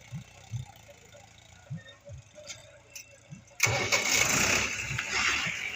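A New Holland 3630 tractor's diesel engine: faint irregular low thumps, then about three and a half seconds in it suddenly becomes loud and keeps running, in the way of an engine starting.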